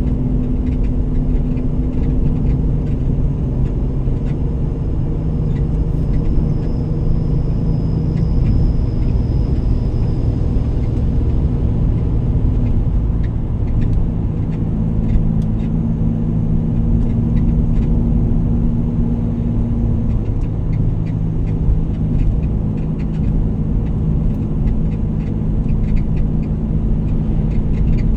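Vehicle engine and road noise while driving: a steady low drone with an engine note that shifts slightly in pitch as the speed changes.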